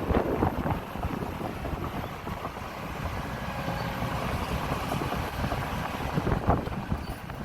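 Heavy earthmoving machinery at work: a diesel engine running with a steady low rumble, rattles and a couple of louder clanks, about a second in and near the end.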